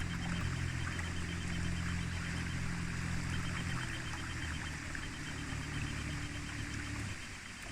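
An engine running steadily with a low hum that shifts pitch slightly about four seconds in, along with a fast, even, high-pitched pulsing.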